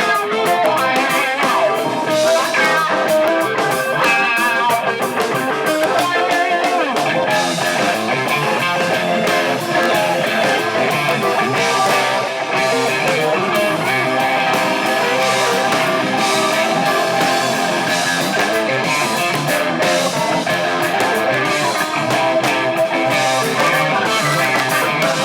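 Live rock band playing an instrumental passage led by electric guitar, with notes bent up and down about a third of the way in.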